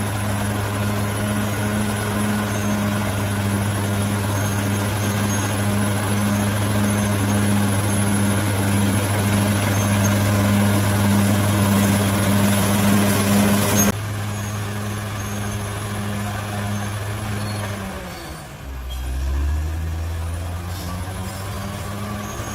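Bulldozer's diesel engine running steadily under load. About fourteen seconds in the sound changes abruptly, and a few seconds later the engine note sags and then climbs back up.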